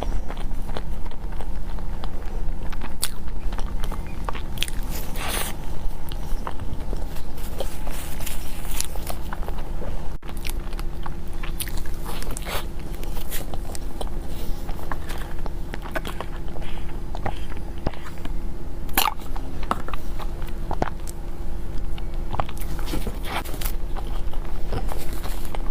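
Close-miked eating sounds of someone biting and chewing soft desserts such as mochi and crepe cake: many short wet clicks and smacks at an uneven pace, over a steady low hum.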